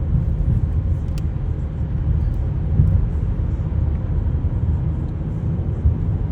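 Steady low rumble with no clear rhythm or pitch, and a faint click about a second in.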